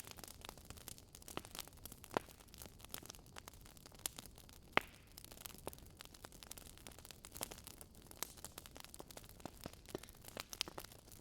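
Wood fire crackling in a fireplace: irregular small snaps and pops, with two sharper pops about two seconds in and near the middle, over a faint low rush of storm wind.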